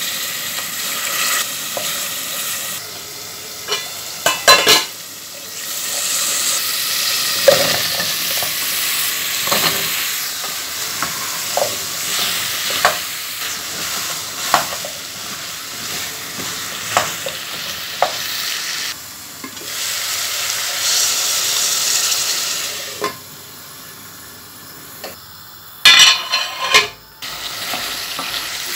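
Spiced curry sizzling as it fries in an aluminium pot, with a wooden spoon stirring and scraping through it and clicking against the pot. The sizzle drops away about three-quarters of the way through, followed by a few loud knocks of the spoon.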